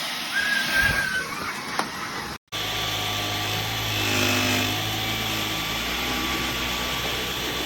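Knocks and handling noise with a brief high tone, then after an abrupt cut the Dyson Gen5outsize cordless vacuum cleaner's motor running steadily, swelling a little about halfway through.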